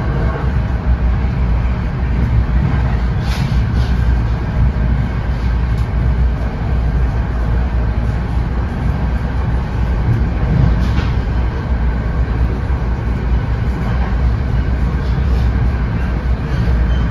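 Steady running rumble and rail noise inside a moving NJ Transit Comet passenger coach, heaviest in the low end, with a couple of sharper clicks about three seconds and eleven seconds in.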